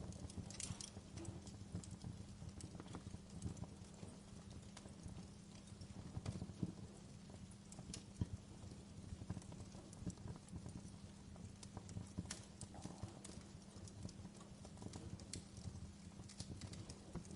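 Wood fire crackling in a fireplace: irregular sharp pops and snaps of burning logs, some louder than others, over a low steady hum.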